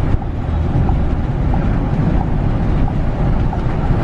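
Steady low rumble of a Scania bus under way, engine and road noise heard from on board.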